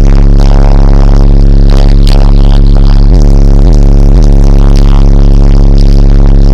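Bass-heavy music played at full volume through a car audio system driven by two CT Sounds Exo 12-inch subwoofers, so loud that the recording is overloaded and distorted. Sustained deep bass notes are broken by three quick downward bass slides about three to four seconds in.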